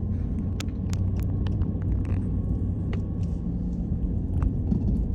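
Car interior road noise while driving: a steady low rumble from engine and tyres, with scattered light clicks and rattles.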